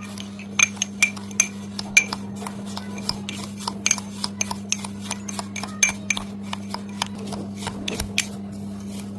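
A spoon clinking against a bowl as coffee scrub is stirred together. The sharp clicks come irregularly, thickest and loudest in the first two seconds and then more scattered.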